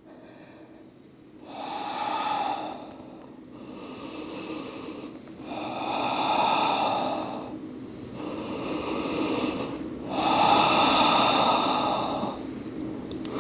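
A woman breathing slowly and audibly, with about five long, drawn-out breaths one after another, each swelling and fading. She is catching her breath after strenuous rounds of crow pose and jump-backs.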